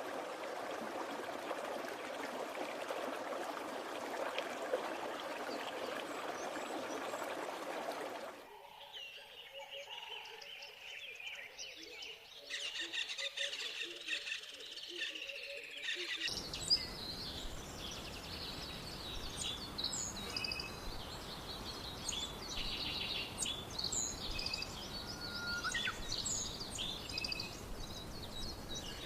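Running water for about the first eight seconds, then an abrupt change to forest ambience with birds chirping and calling over a steady low tone. A second cut, about halfway, brings a denser chorus of short, high bird chirps over a background hiss.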